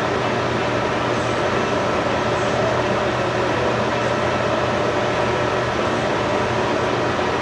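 A steady mechanical hum with a rushing noise, unchanging throughout.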